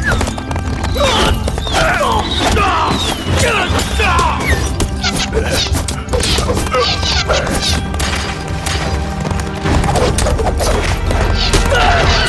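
Dramatic action film score with a deep steady drone, laid over a cavalry chase. Wavering cries rise and fall through the first few seconds, and crashes and thuds are scattered through it.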